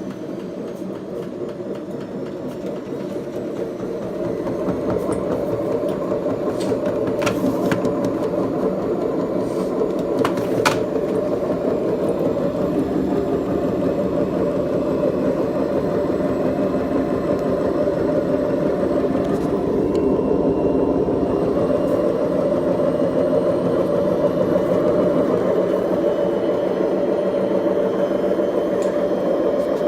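BEKO washing machine running with a steady rumble from its drum, building up over the first several seconds and then holding, with a few sharp clicks about a quarter to a third of the way in: the drum bearings are worn.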